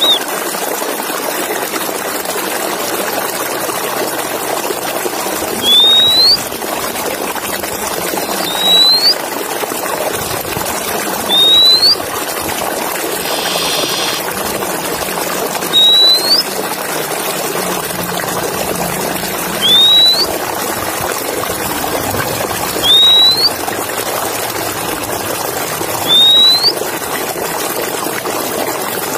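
Male oriental magpie-robin giving a short rising whistle, repeated about every three seconds, over a steady rushing noise like running water.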